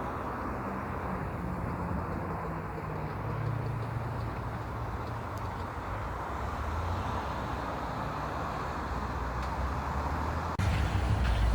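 Road traffic: a heavy vehicle's engine running with tyre noise, as a steady low hum. It cuts abruptly to a louder, closer engine near the end.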